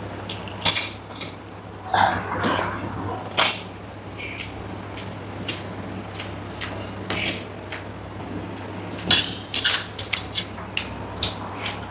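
Close-up eating sounds of someone eating dal, rice and curries by hand: irregular wet lip smacks and chewing clicks, several a second.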